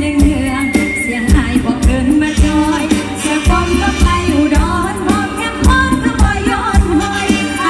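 Isan mor lam song: a singer's voice over a band with a drum beat.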